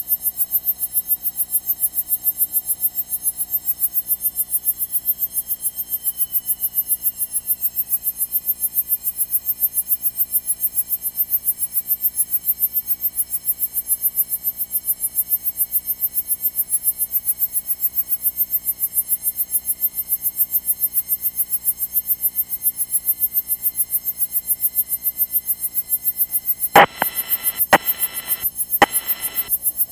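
Electrical hum and buzz in a Cessna 172's cockpit intercom audio, pulsing evenly, with a whine that falls in pitch over several seconds and then holds steady. Several sharp clicks near the end.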